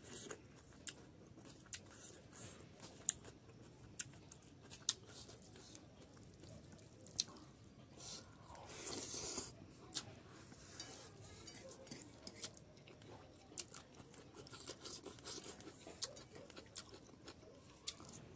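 Close-up chewing of rice and boiled pork fat, with scattered sharp wet mouth clicks. About halfway through comes a longer rustle as the fingers work the rice in the metal bowl.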